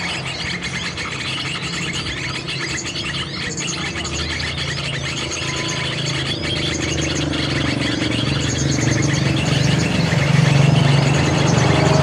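Many small birds chirping and chattering in quick, overlapping notes, with a steady low hum that grows louder over the last few seconds.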